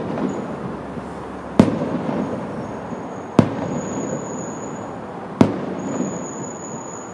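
Aerial firework shells bursting in a display: three sharp bangs, about two seconds apart.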